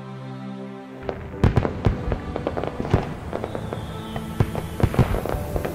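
Fireworks going off, an irregular run of bangs and crackles starting about a second in, over background music with steady held tones.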